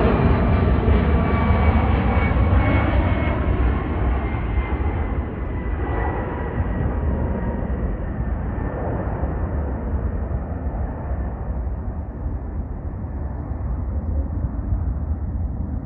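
Twin jet engines of a Boeing 767-300ER airliner passing by and drawing away, a steady rush with thin whining tones that slowly sink in pitch as the sound grows duller and quieter.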